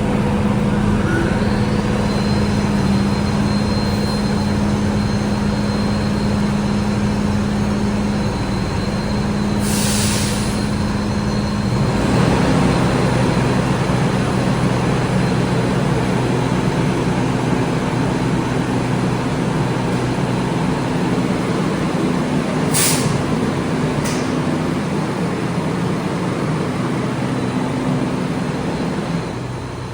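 Heavy fire truck's diesel engine running, with a sharp hiss of air brakes released about ten seconds in and two short hisses near the end. About twelve seconds in, the engine note drops lower and steadies.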